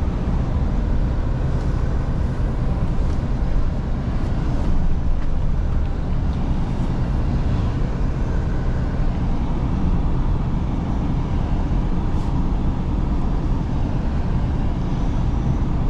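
Scania V8 truck engine running steadily while driving, with an even low hum and road noise.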